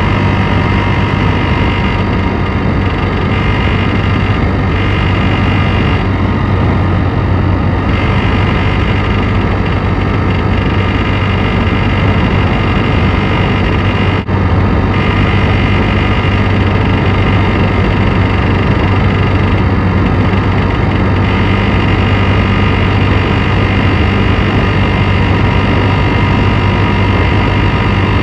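Piaggio X9 500 maxi scooter's single-cylinder four-stroke engine running steadily at idle, with the timing-chain noise that the owner takes for a worn chain or chain tensioner. The sound drops out briefly about halfway through.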